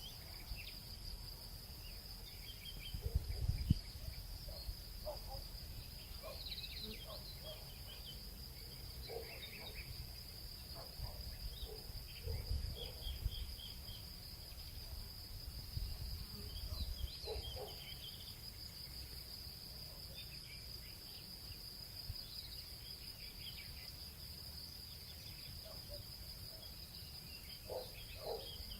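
Nature ambience: a steady high drone of insects such as crickets, with scattered short bird chirps and calls over it and a few brief low rumbles.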